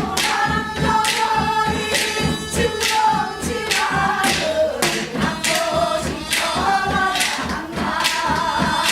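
Korean gyeongseodo folk singing: voices hold long wavering notes over a regular beat of sharp percussive strokes.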